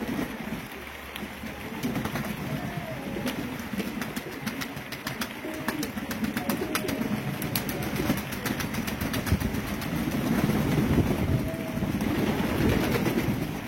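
Pigeons cooing, a low, rolling sound that goes on throughout, with many light clicks and taps scattered among the coos.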